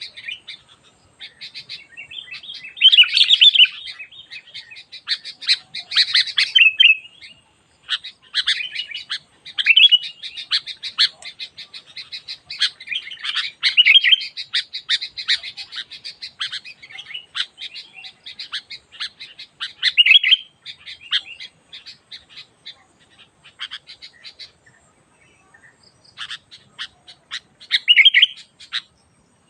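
Sooty-headed bulbuls (kutilang) calling in a busy run of short chirps and chattering phrases, with a brief pause about 25 seconds in.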